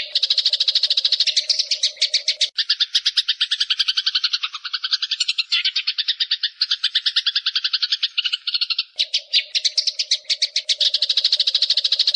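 Eurasian tree sparrows (burung gereja) chattering in a fight: a loud, rapid, even run of harsh chirps, about ten a second, whose pattern shifts about two and a half seconds in and changes back near the end.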